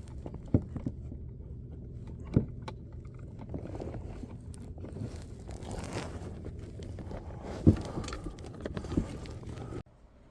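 Handling noise in a fishing kayak: a few sharp knocks and some scraping as gear is moved about, over a steady low rumble. The sound cuts off suddenly near the end.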